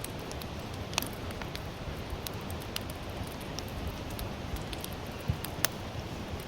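Sawtooth oak (kunugi) firewood burning, with a steady low rush under scattered sharp crackles and pops; the loudest pops come about a second in and twice in quick succession about five and a half seconds in.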